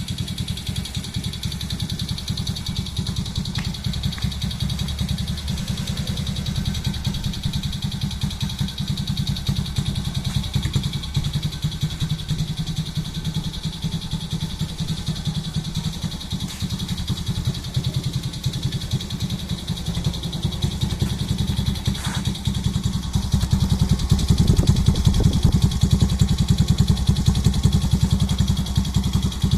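Kawasaki Fury 125's single-cylinder engine, bored up to 178cc with a Takegawa kit, running through a stock Suzuki Gixxer 155 muffler: a steady, even exhaust note that gets louder about three-quarters of the way through.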